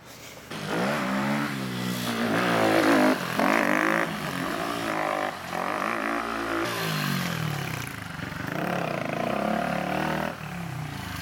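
A motor vehicle's engine revving hard and easing off again and again, its pitch climbing several times in a row as it accelerates.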